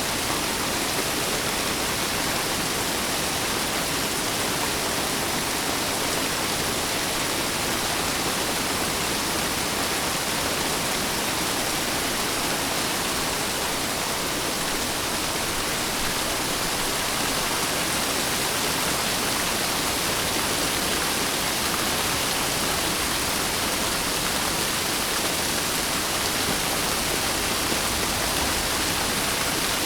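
Steady rain falling, an even hiss with no thunder or changes.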